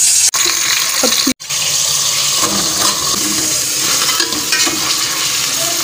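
Minced boneless chicken frying in hot oil in a metal pot, sizzling steadily while it is stirred with a spoon, with a brief cut-out a little over a second in.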